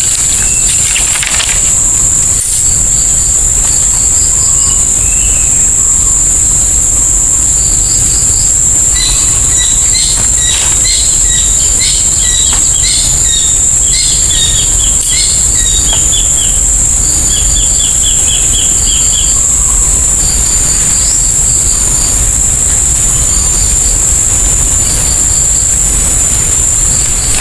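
Insects droning in a steady high-pitched whine, with bird chirps in quick runs through the middle, over a steady low rumble.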